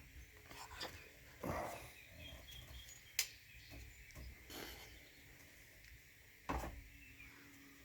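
Faint buzzing of a bumblebee flying close by, coming and going, with small birds chirping. A sharp click comes about three seconds in, and there are two dull thumps, about a second and a half in and near the end.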